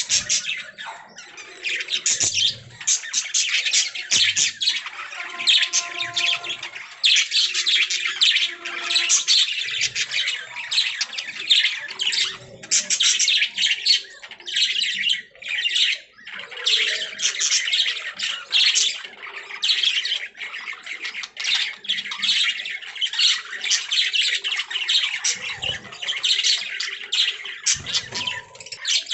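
Budgerigars chirping and chattering: a near-continuous run of rapid, high-pitched chirps with squawks mixed in.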